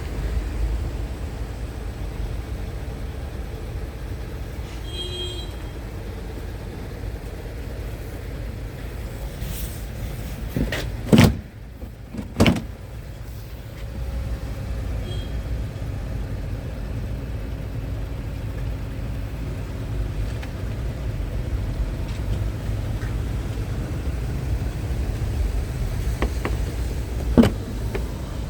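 Low, steady rumble around a Scania R tractor unit, broken by two sharp knocks about eleven and twelve seconds in and one more near the end; the knocks are the loudest sounds.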